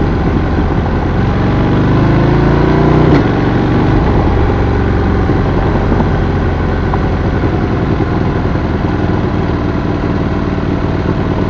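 Adventure motorcycle engine running on a dirt back road; its note rises for about a second, drops sharply about three seconds in, then runs steadily.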